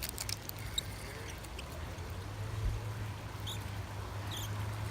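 Steady rush of a small creek with a low rumble under it, and a few short, high-pitched chirps over it.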